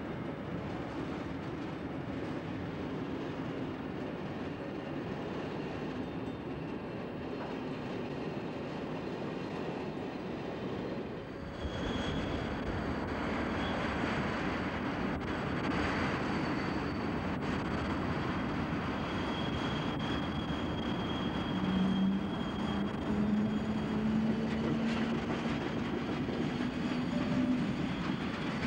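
Swiss electric trains running through a railway station: a steady rumble of rolling wheels and carriages. About eleven seconds in the sound shifts to a louder train passing, with a faint high whine.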